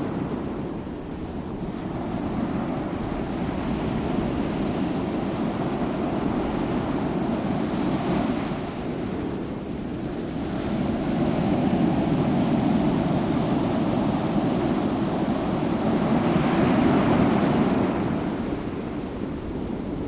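Sea waves washing in on the shore, a steady surf noise that swells and ebbs several times, the loudest surge coming near the end.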